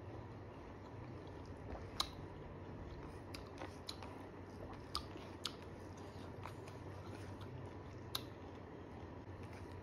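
A person chewing and lip-smacking while eating rice and chicken by hand, with a few sharp clicks about two, five and eight seconds in.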